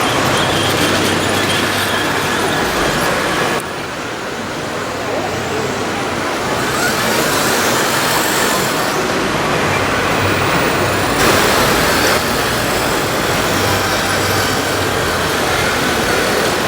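A radio-controlled model bulldozer running, mixed with a murmur of voices. The sound changes abruptly about four seconds in and again about twelve seconds in.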